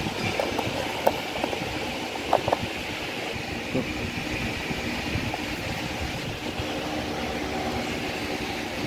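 Steady mechanical background hum, with a few light clicks and taps about one and two and a half seconds in.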